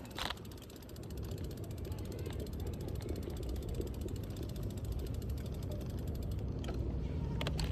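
Bicycle rear freewheel ticking rapidly and evenly as the bike coasts, over a low rumble that grows louder about a second in. A few sharper clicks come near the end.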